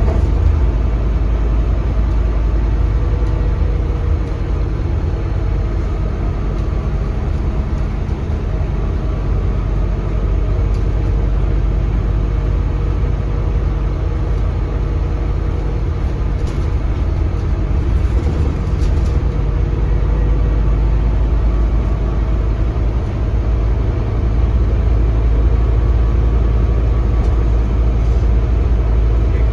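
Steady ride noise heard aboard a Scania K320CB bus: the low drone of its Scania DC9 diesel engine with road and tyre rumble as it drives along.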